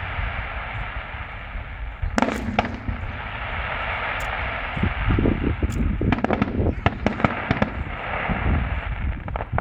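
Aerial fireworks display: shells bursting with deep booms over continuous crackling, with a sharp bang about two seconds in and a rapid run of sharp bangs between about five and seven seconds in.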